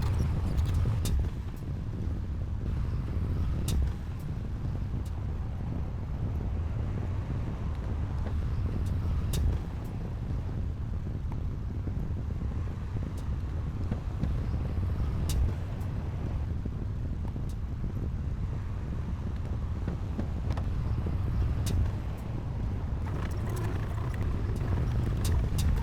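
Heavy diesel earthmoving machinery running with a steady low rumble, with a sharp clank about every six seconds.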